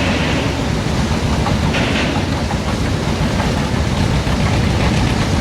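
Modified pulling tractor's engine running loud and steady, a heavy rumbling roar.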